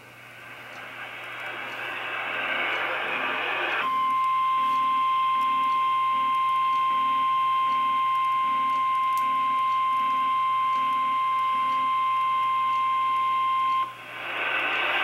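Emergency weather alert broadcast: radio static swells for about four seconds, then the Weather Radio warning alarm tone, a single steady high tone, sounds for about ten seconds and cuts off suddenly. It announces a severe thunderstorm warning.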